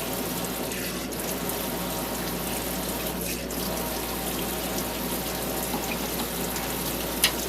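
Tap water running steadily into a sink, with one sharp click near the end.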